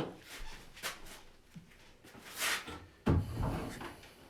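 A few wooden knocks and clicks and a short scrape, from a green-wood blank being handled and worked, ending in a duller knock a little after three seconds in.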